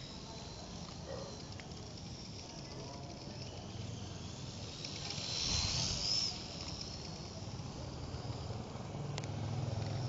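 Small electric motor of a DIY radio-controlled motorcycle whining at a high pitch. About five to six seconds in, the whine rises in pitch and gets louder as the bike speeds up, then drops away.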